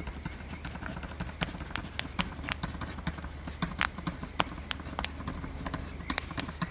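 Wood fire crackling: irregular sharp pops and snaps, several a second with some louder ones, over a steady low rumble.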